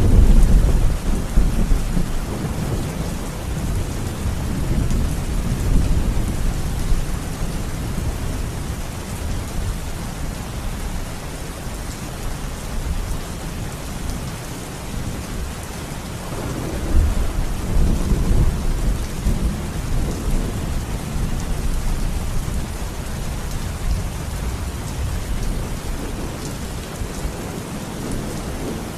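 Thunderstorm: steady rain falling throughout, with a loud thunderclap right at the start that rolls away over several seconds, and a second roll of thunder a little past halfway.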